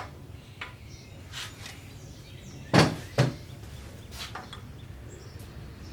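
Two sharp knocks a fraction of a second apart about three seconds in, with a few lighter clicks, from engine parts and tools being handled. A low steady hum runs beneath.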